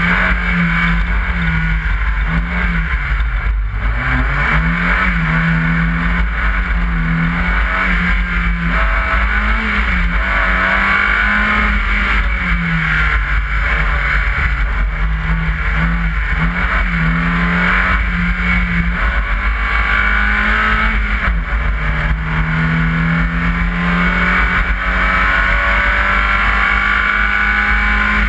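BMW 318is rally car's four-cylinder engine driven hard on a stage, its pitch repeatedly climbing and dropping through gear changes and lifts, with one deep drop about three and a half seconds in, over a steady rushing noise.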